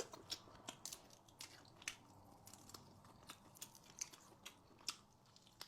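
A person chewing a mouthful of seafood close to the microphone, with faint, irregular wet mouth clicks.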